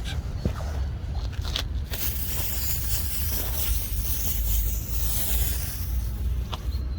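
Hand sprayer spraying cleaning fluid onto a gravestone, a steady hiss that starts about two seconds in after a few light clicks, over a constant low rumble.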